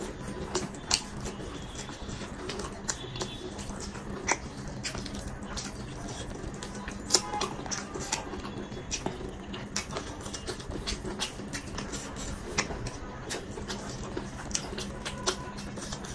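Close-miked open-mouth chewing of chicken biryani: irregular wet lip smacks and mouth clicks, with fingers squishing through the rice.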